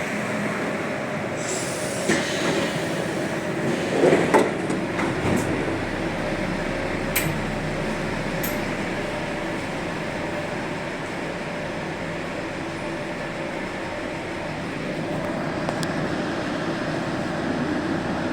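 Santiago Metro NS-74 rubber-tyred train running, a steady rumble and hiss, with a cluster of louder clanks about four seconds in and a couple of sharp clicks a few seconds later.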